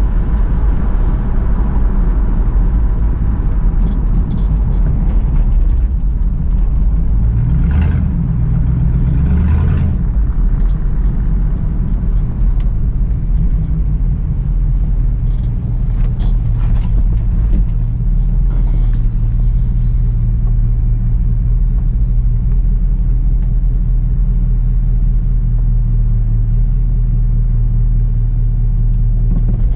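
1967 Pontiac Firebird's V8 engine running as the car drives, a steady low rumble. About eight seconds in the engine note rises for a couple of seconds, then settles back and holds steady.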